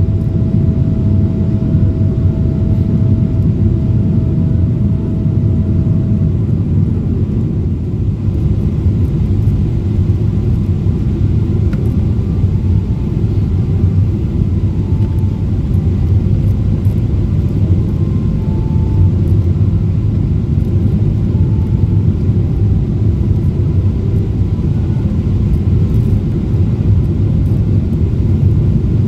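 Steady low rumble of a Boeing 777-300ER's engines and airflow, heard from inside the passenger cabin. A faint steady hum sits over it and stops about six seconds in.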